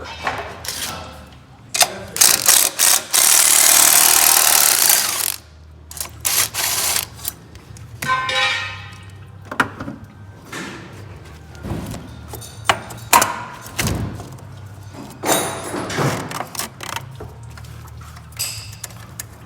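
Hand tools at work on a truck engine: repeated metal clanks and clicks with a short stretch of ratcheting, interrupted early on by a loud hissing rush that lasts about three seconds.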